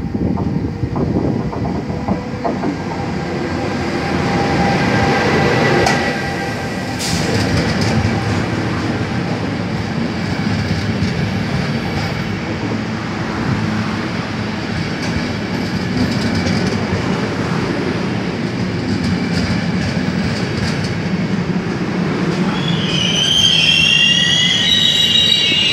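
Trenitalia regional train hauled by an E.464 electric locomotive pulling in along the platform: steady rumble of wheels on rail, with clicks over the rail joints in the first seconds, louder as the locomotive passes. A few seconds before the end the brakes squeal in several high tones as the train slows to a stop.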